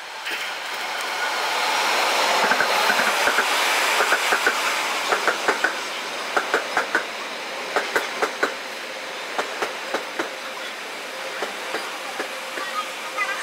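A train passing on the track: a steady rolling rumble builds over the first two seconds, and groups of sharp clacks repeat as the wheel sets cross rail joints, spacing out toward the end. The audio is sped up to double speed.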